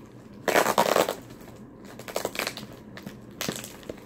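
A cardboard package being opened and handled: a loud crunching rustle lasting about half a second, followed by a few shorter crinkles.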